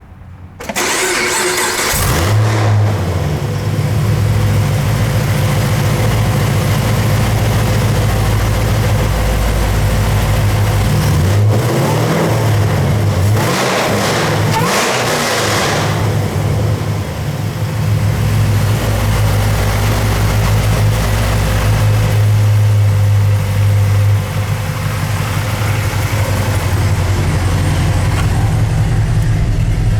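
A 6.2L LSA supercharged V8 from a 2013 Camaro ZL1 is cranked and catches about a second in, then idles steadily. It is revved a couple of times in the middle, rising and falling in pitch, and settles back to idle.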